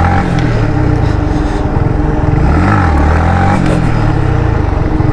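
Heavy diesel vehicle passing close by with a loud, low engine rumble whose pitch rises and falls about three seconds in.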